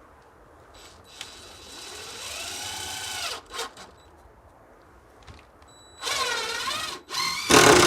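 Cordless drill/driver spinning up and driving a screw, its whine rising in pitch, then running again in a wavering whir about six seconds in; a louder burst of noise comes near the end.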